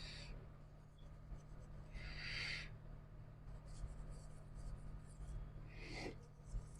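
Three brief scratchy rubbing strokes, the first right at the start, one about two seconds in and one near the end, over a steady low electrical hum.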